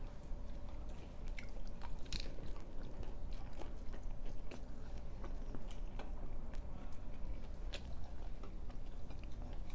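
Close-up chewing and biting of paratha flatbread with egg, with many short wet mouth clicks and smacks scattered through, over a steady low hum.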